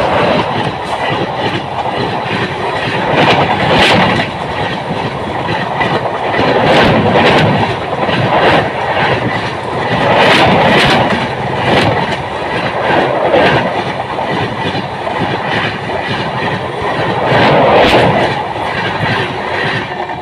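A train passing at speed right beside the microphone at rail level: a loud, continuous rush and rumble of wheels on the rail, broken by repeated sharp clacks of the wheels.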